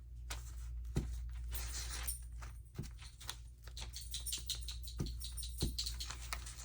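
Paper and card being handled and shifted on a work surface: soft rustles with scattered light taps, over a steady low hum.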